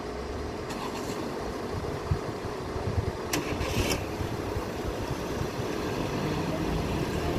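Car engines idling in a queue and then pulling away, growing slowly louder, with a brief hiss about three and a half seconds in.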